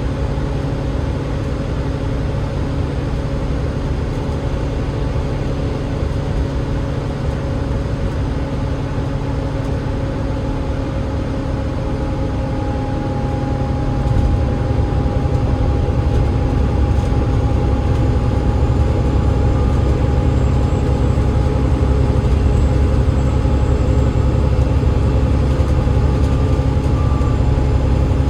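Double-deck bus with a Cummins ISL8.9 diesel engine and a ZF EcoLife automatic gearbox running on the road, a steady low rumble with a few steady tones over it. About 14 seconds in it grows louder and a steady whine joins in.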